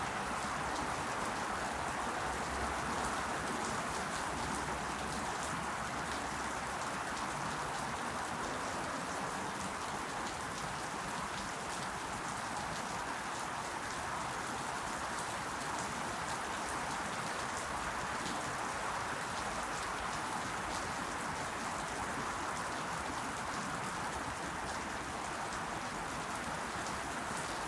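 Steady rain falling on leaves and other surfaces, an even hiss with fine scattered drips.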